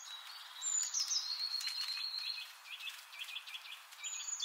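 Songbirds singing outdoors: high whistled phrases that slide downward and a long held whistle, then a run of short repeated chirps, over a soft steady hiss of outdoor ambience.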